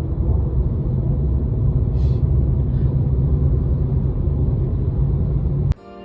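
Steady low road rumble inside a moving car, which cuts off suddenly near the end.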